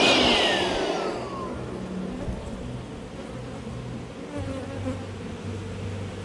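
Honeybees buzzing in numbers around open hives. In the first second and a half a machine's high whine falls in pitch and fades away under the buzzing.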